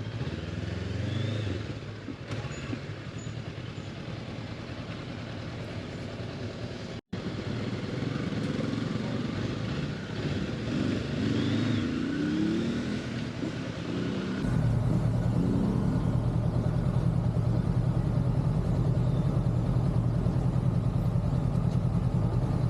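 Honda motorcycle engine running, with traffic and voices around it. About two-thirds of the way through there is a cut to a louder, steady, low engine drone.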